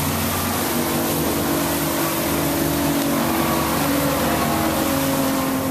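A boat's inboard engine running steadily under way, with a rushing hiss of wind and water on the microphone.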